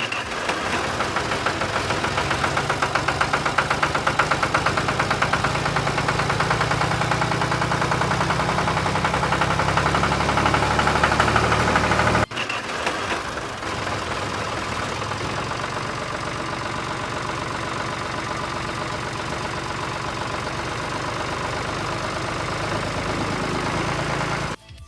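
Engine running with a fast, even chug, like a tractor engine at idle. About halfway through it cuts off abruptly and starts again at once, a little quieter and steadier.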